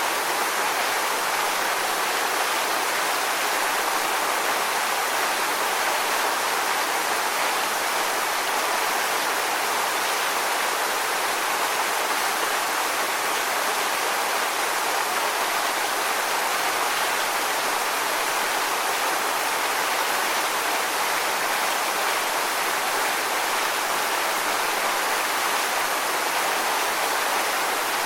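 Steady rushing water, an even hiss with no swells or breaks.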